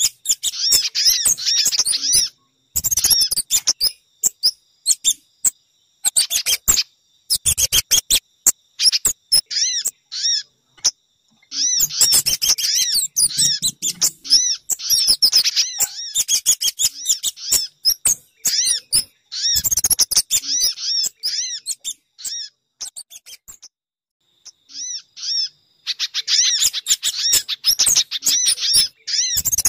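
Bird-lure recording of small birds' calls: fast runs of sharp, high, repeated chirps in bursts of a few seconds, with short breaks between them. The track mixes sogon, pijantung (spiderhunter) and kemade calls to draw those birds in.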